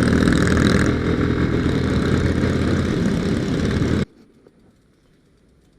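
Motorcycle riding noise: an engine running steadily under a loud rush of wind and road noise, cutting off suddenly about four seconds in.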